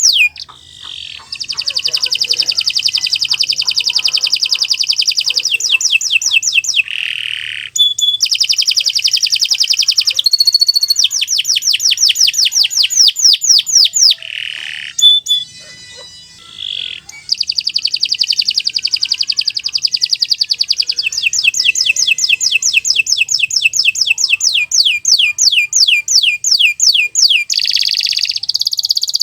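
Domestic canary singing long rolled trills: rapid runs of repeated high notes in phrases several seconds long, with short pauses between them. The longest phrase runs about ten seconds in the second half.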